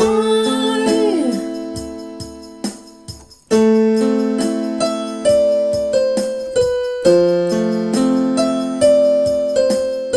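Keyboard accompaniment for a vocal warm-up exercise. A sung note slides downward over a held chord at the start and fades, then after a short break the keyboard plays a steady run of chords, about two a second.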